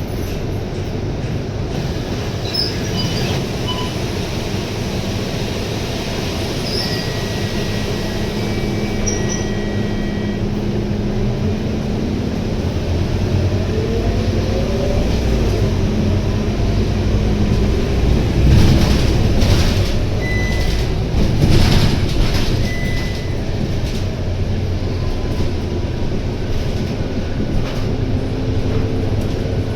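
Scania K230UB bus's Scania DC9 9.3-litre diesel engine and drivetrain running as heard from inside the bus. About halfway through a rising whine comes in and the running gets louder, with a couple of short thumps in the louder stretch.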